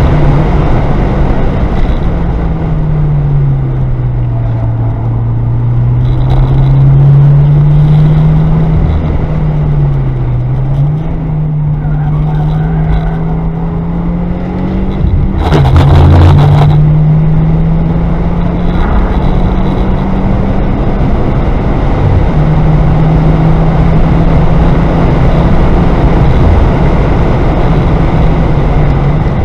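A car's engine heard from inside the cabin on a race track, its note falling and rising as the driver lifts and gets back on the throttle through the corners, with road and wind noise under it. About halfway through comes a rattling burst of about a second, as the tyres run over the painted kerb.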